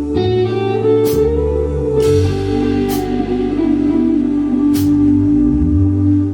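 Live rock band playing an instrumental passage without vocals: guitars and bass hold chords while the drums strike a sharp hit about every two seconds.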